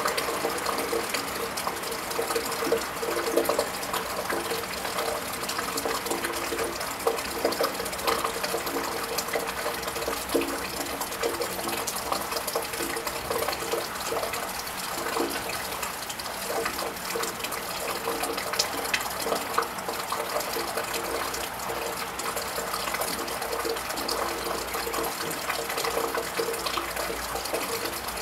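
Steady rain falling on a tiled roof and gutter, with many small irregular drips and splashes.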